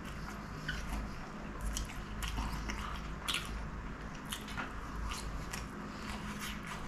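Close-miked chewing of a chicken samosa: an irregular run of short mouth clicks, one louder about three seconds in.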